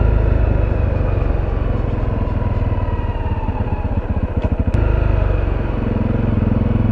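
Honda CRF250L single-cylinder motorcycle engine running at low speed on the move. From about three seconds in the firing pulses slow to a distinct putter, then the sound evens out again shortly before five seconds in.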